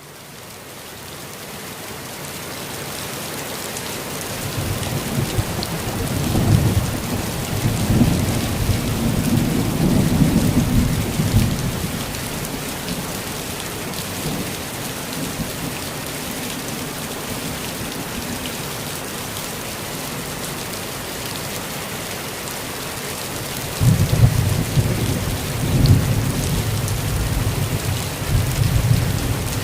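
Steady rainfall, an even hiss of drops that fades in over the first few seconds. Low rolling rumbles of thunder swell twice, once for several seconds near the start and again near the end.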